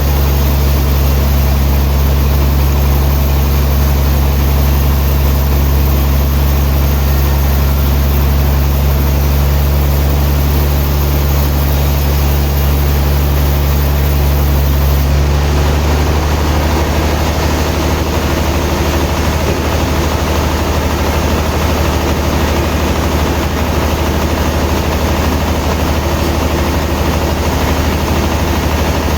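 Sawmill machinery running steadily with a deep, low hum, its tone shifting about halfway through.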